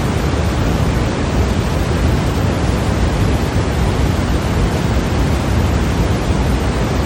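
Steady, unchanging generated white noise, an even hiss that is heavier in the low end and sounds like a deep rush.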